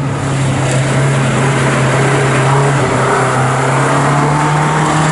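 Historic touring race cars' engines running hard at high revs, the pitch slowly rising as they accelerate.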